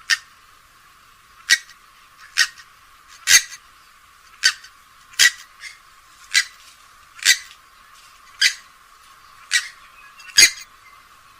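Short, sharp calls of a rail of the swamphen and moorhen family, given one at a time about once a second, eleven in all. The low end is cut away, so the calls sound thin.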